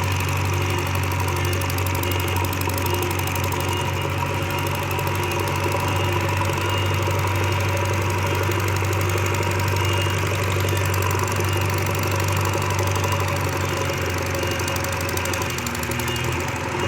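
Heavy diesel engine of a backhoe loader or tractor running steadily under work, its note dipping briefly near the end.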